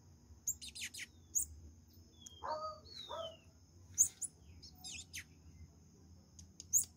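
Birds chirping: short, sharp, high chirps that drop quickly in pitch, at irregular intervals, with a lower, fuller call about two and a half seconds in. A faint steady high tone runs underneath.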